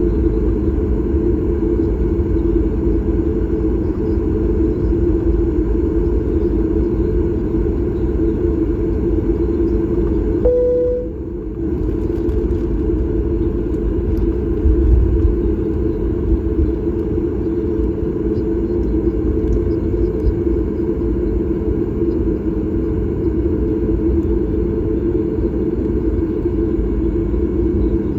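Steady cabin rumble from the Boeing 737 MAX 8's CFM LEAP-1B engines and airflow, heard inside the passenger cabin, with faint steady tones over it. About a third of the way through there is a brief single tone and a short dip in level.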